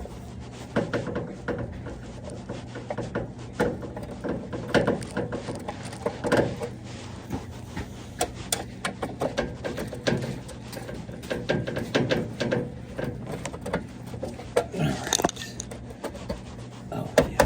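Irregular clicks, knocks and scraping of a tool working at screws in a dishwasher's panel and handling its metal and plastic, over a low steady hum.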